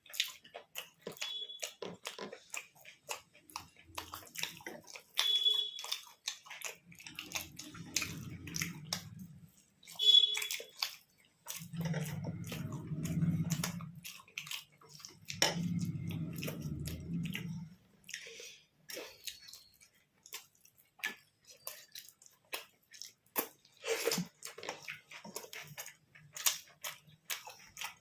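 People chewing soft food close to the microphone: paratha, suji halwa, ghugni and syrupy sweets, with many small wet mouth clicks throughout. Three low hums of a second or two each come in the middle.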